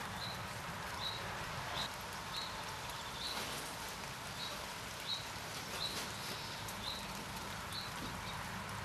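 Steady outdoor wind and rain noise, with a small bird repeating a short, high chirp about every three-quarters of a second.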